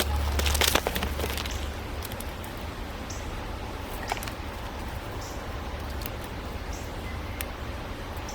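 Small birds at a seed feeder: a brief flutter of wings in the first second, then scattered faint, short high chirps over steady outdoor background hiss. A low rumble fades out within the first second.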